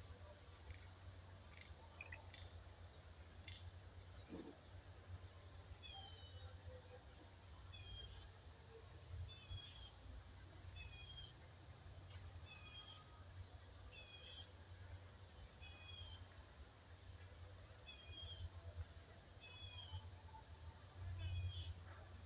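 Faint forest ambience: a small bird repeats a short, high, falling chirp about once a second, starting about a quarter of the way in, over a steady high insect hiss and a low rumble.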